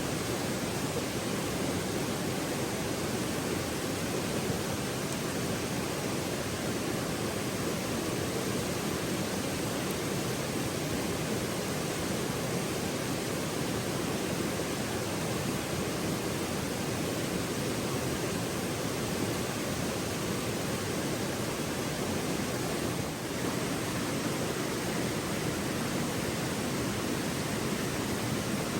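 Steady rush of a flowing river, an even, unbroken sound with no crackles or distinct events.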